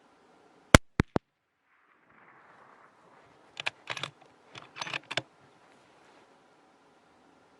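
A very loud sharp crack from a suppressed hunting rifle firing, followed by two quicker, smaller cracks. From about three and a half seconds in come two quick runs of metallic clicks as the bolt is worked to chamber the next round.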